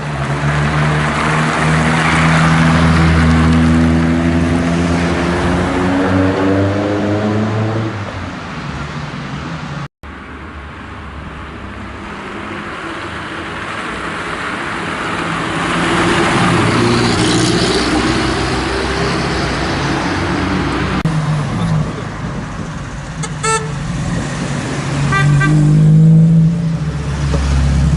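Historic rally cars' engines accelerating away and passing on the road, the first pulling up through its revs. The sound breaks off for a moment about ten seconds in, then more cars go by.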